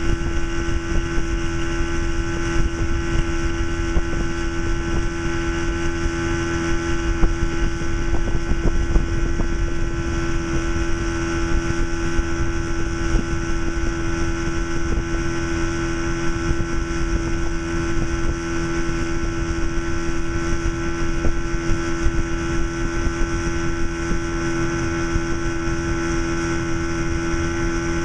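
Force 40 hp two-stroke outboard motor running at a steady, unchanging speed, with wind buffeting the microphone.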